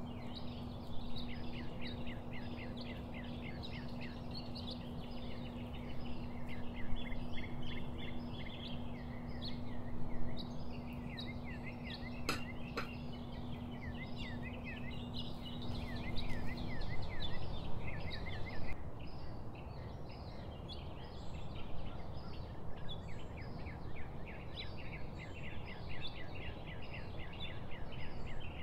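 Many small birds chirping continuously in quick, overlapping calls. Under them runs a steady low hum that stops a little past halfway.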